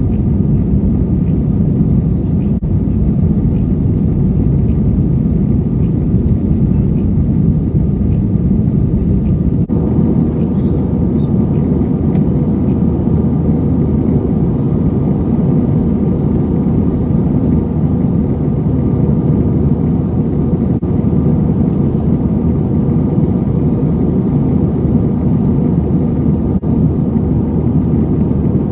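A vehicle driving: a steady low rumble of road and engine noise with no change in pace.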